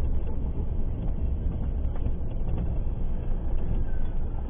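Steady low rumble of a car driving, road and engine noise heard from inside the cabin through a dashcam's microphone.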